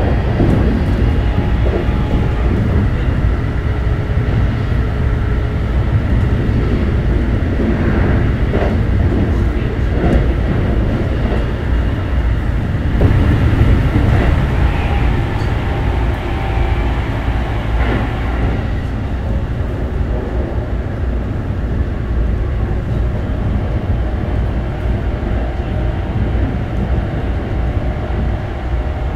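Keikyu New 1000 series electric train running, heard from inside the car: a steady loud rumble of wheels on rail with a faint steady motor and inverter whine.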